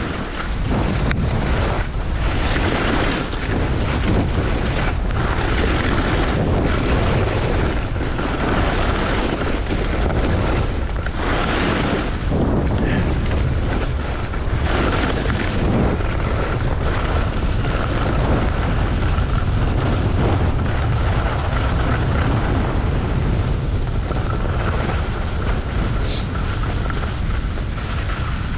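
Wind rushing over the camera's microphone while skiing downhill at speed, with surges as the skis turn and hiss over the snow.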